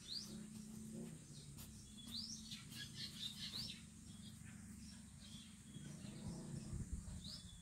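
Faint birds chirping: short, quick rising notes, several in a cluster two to four seconds in and one more near the end, over a low steady hum.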